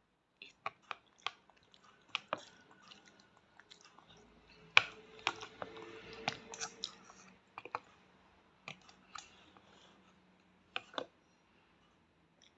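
A small child eating pasta close to the microphone: quiet chewing and mouth noises with many short, sharp clicks at irregular intervals.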